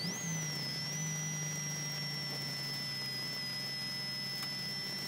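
Commodore rally car's engine running steadily at low revs on the transit after the stage, heard inside the cabin, with a brief rise in revs right at the start. A thin high-pitched whine rises sharply with it and then holds steady.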